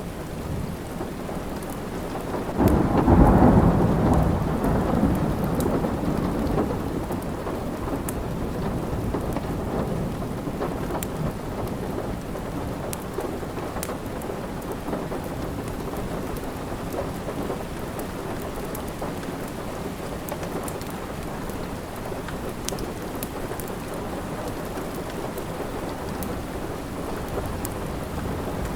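Steady rain with a low roll of thunder that swells about three seconds in and slowly fades over the next several seconds. Scattered sharp crackles from a log fire sit over the rain.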